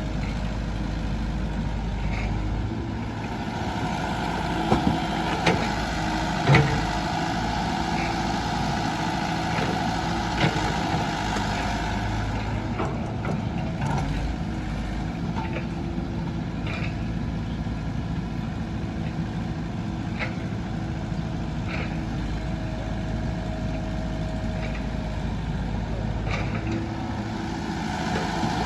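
Heavy diesel machinery running steadily while soil is loaded into a tractor trolley, with a few sharp knocks about five to seven seconds in and once more about ten seconds in.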